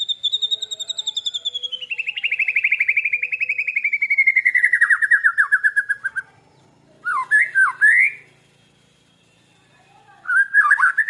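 Cage birds singing: a long rapid trill that falls steadily in pitch for about six seconds, then two short bursts of quick, sweeping whistled notes. The birds are a white-rumped shama that imitates cililin song and a lovebird.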